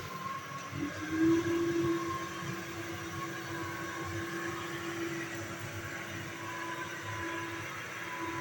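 Vacuum cleaner running, a steady whooshing hum with a held whine, swelling louder for a moment about a second in.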